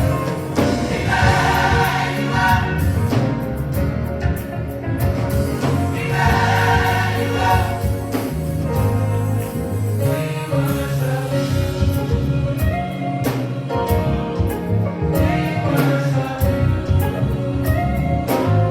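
A gospel choir singing with band accompaniment, over a steady bass line and a regular beat, the voices swelling louder twice in the first half.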